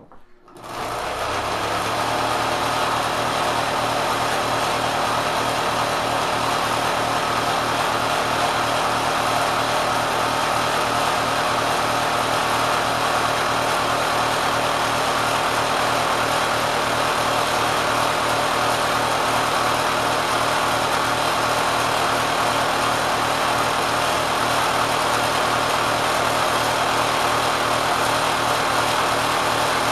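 Kenmore sewing machine driven by a swapped-in 3/4 hp electric motor, spinning up in the first couple of seconds and then running steadily at high speed, far past its factory RPM, with a fast even mechanical clatter.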